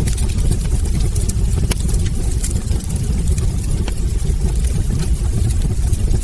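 Wood fire burning in a fireplace: a steady low rumble with frequent irregular sharp crackles and pops from the burning logs.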